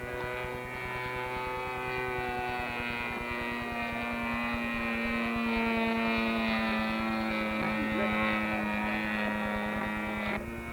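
Propeller engine of a radio-controlled model tow plane running steadily in flight while towing a model glider, its pitch shifting slightly, then stopping abruptly near the end.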